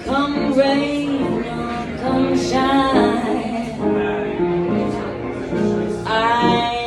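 Music: a singer holding long, wavering notes with vibrato over accompaniment.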